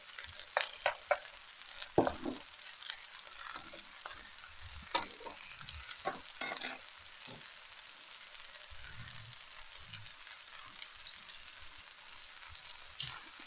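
Chicken, vegetables and noodles sizzling steadily in a hot wok, broken by short scrapes and knocks of a utensil stirring against the wok, the loudest about two seconds and six seconds in.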